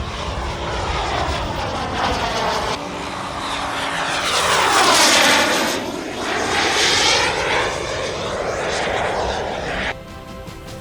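Turbine-powered radio-control model jet flying past, a jet rush that swells to its loudest about halfway through and then fades. The sound drops away abruptly near the end.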